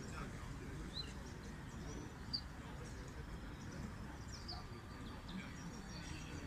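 Small birds chirping now and then, short high chirps about every second, over a steady low background rumble.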